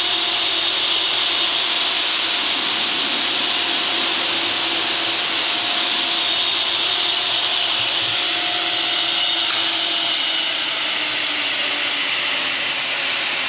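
Pertici Univer 400 P double-end miter saw free-running, its motors and 15-inch blades spinning with a steady whir and a few steady hums, running smoothly with no sign of a fault. Near the end the pitch sags slightly.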